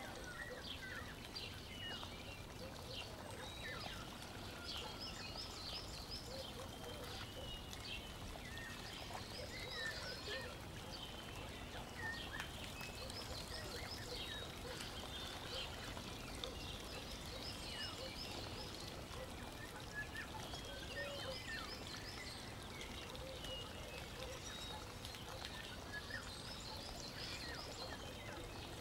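Faint bird chirping: a short, quick phrase repeated every couple of seconds over a low steady hiss.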